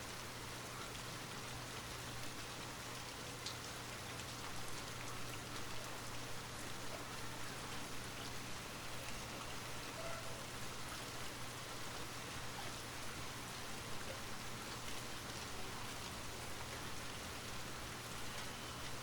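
Light rain falling steadily, an even hiss with scattered soft drop ticks.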